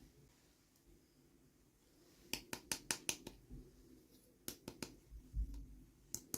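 Sharp clicks and taps of small plastic pieces being handled. A quick run of about six clicks comes about two seconds in, a few more follow later, and there is a soft low thump in between.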